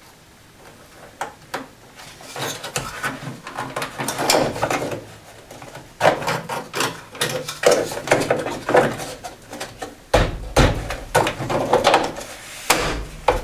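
Irregular knocks, clicks and rubbing of parts and tools being handled during car reassembly work, busier from about halfway through.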